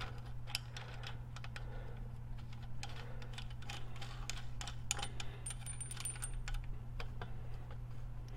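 Light metallic clicks and clinks of a steel washer and nut being fitted and threaded onto the rod of an inner cam bearing puller, scattered irregularly, over a steady low electrical hum.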